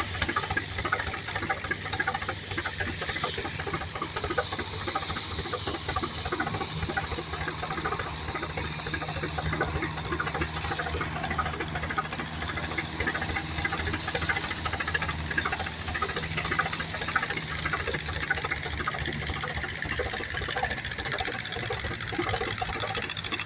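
Tractor engine running steadily, with a fast even pulse and a steady hiss over it.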